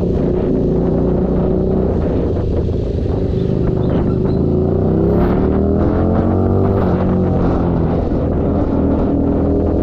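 Keeway SCR 250's V-twin engine running through a Racefit free-flow exhaust, its revs climbing through the middle and then easing back.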